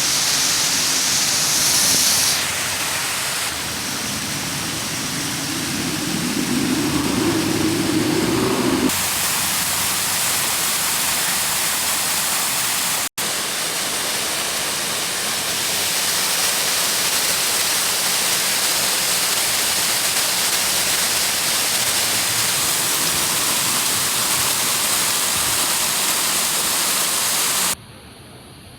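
Falling water from a park fountain and waterfalls, a steady loud rush and splash. The rush changes level abruptly a few times, cuts out for an instant about halfway through, and drops much quieter about a second before the end.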